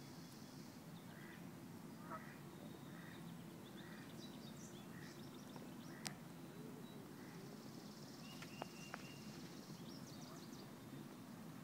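Faint outdoor ambience: a steady low hum under soft, scattered bird calls, with a sharp click about halfway through and two more ticks a little later.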